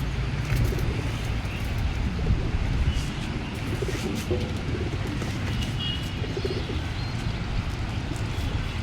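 Domestic pigeons cooing, with a few small-bird chirps, over a steady low rumble.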